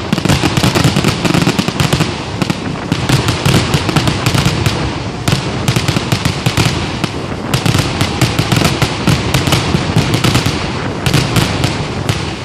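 Aerial fireworks shells bursting in a rapid, overlapping barrage: many loud bangs a second with crackling between them, thinning slightly near the end.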